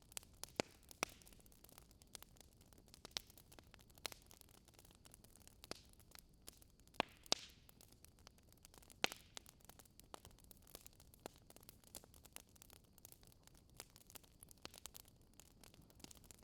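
Wood fire crackling in a fireplace: irregular snaps and pops over a soft hiss, with a few sharper pops in the first second, around seven seconds in and at about nine seconds.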